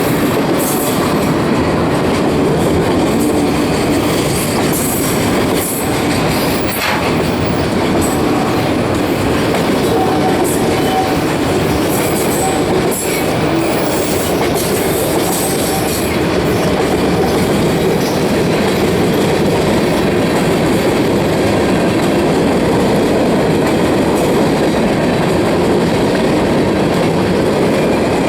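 Union Pacific freight train rolling past: a steady, loud rumble of steel wheels on rail, with a couple of sharp clacks and short high wheel squeals.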